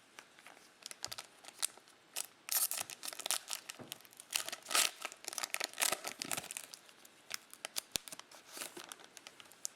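Wrapper of a Mosaic football trading-card pack being torn open and crinkled: a dense run of sharp crackles, heaviest in the middle and thinning out near the end.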